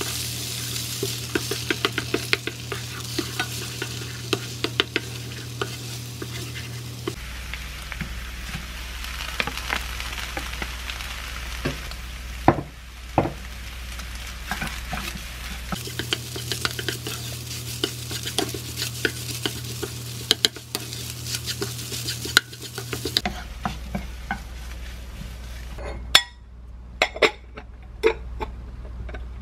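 Egg and shrimp fried rice sizzling in a nonstick frying pan while a spatula stirs and scrapes it, with many small taps against the pan. Near the end the frying stops and a few sharp clinks of ceramic bowl and plate follow.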